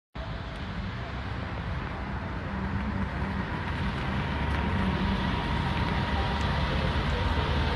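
Steady low rumble of a car engine running close by, with outdoor traffic noise around it.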